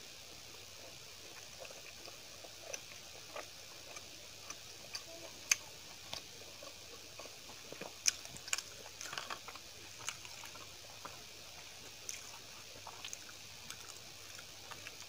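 Close-miked chewing of chapati and curry, with scattered wet mouth clicks and smacks, the sharpest about five and a half and eight seconds in. Fingers work chapati into a bowl of curry, over a steady background hiss.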